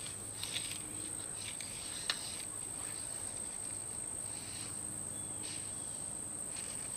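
Insects trilling steadily at a high pitch, with faint scattered rustles and a single sharp click about two seconds in.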